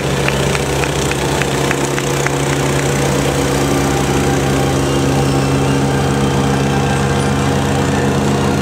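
An engine idling steadily at an even pitch. A light, rapid ticking, about three or four ticks a second, runs alongside it and fades out about three seconds in.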